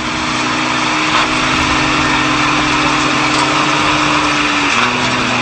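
Vehicle engine running steadily under a loud hiss of road noise, its drone dropping slightly in pitch near the end.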